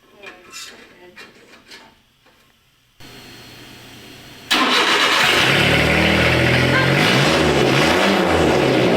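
A turbocharged 1999 Suzuki Carry kei truck's three-cylinder engine starting about four and a half seconds in, after a few clicks and a low hum, then running loud through a single straight 'bazooka' style pipe with no muffler, its pitch wavering with light revs.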